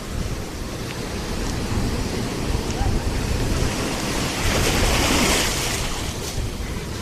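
Ocean surf breaking on a beach, with a louder wash of a wave coming in about four and a half seconds in, over steady wind rumble on the microphone.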